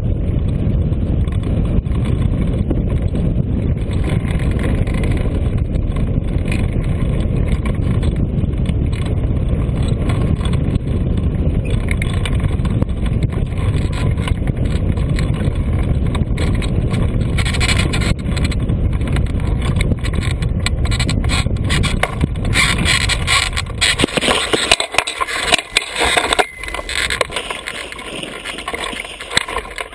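Steady loud rush of wind buffeting the microphone on a flying hang glider. From about two-thirds of the way in, a run of sharp knocks and scrapes joins it, and near the end the wind rush drops away, leaving irregular scraping and clatter.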